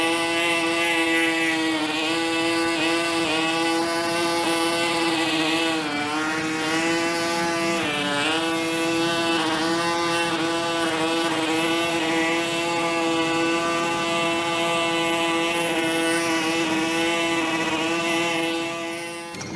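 A small engine or motor running steadily at high speed, its pitch dipping briefly twice as if under load, then stopping abruptly near the end.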